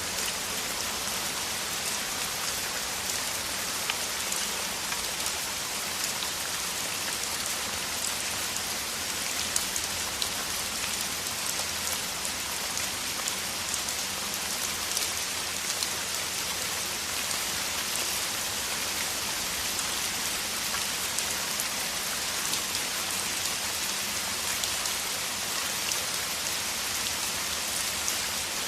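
Downpour of heavy rain falling steadily: an even hiss with scattered single drops ticking sharply now and then.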